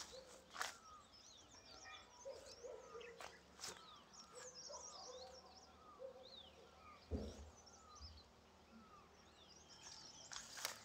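Faint chirping of several small birds: many short, high, falling notes scattered throughout, with a soft thump about seven seconds in.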